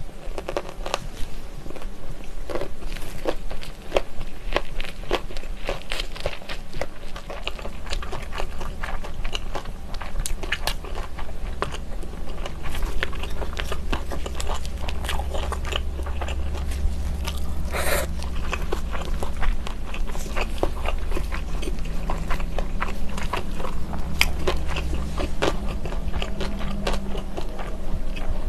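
Close-miked chewing of a mouthful of jjolmyeon, chewy spicy cold noodles with crunchy vegetables, full of small wet mouth clicks and crunches, one sharper crunch about two-thirds of the way through.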